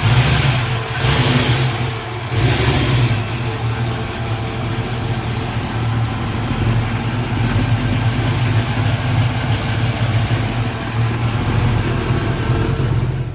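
Car engine revved about three times in the first few seconds, then running steadily and loudly.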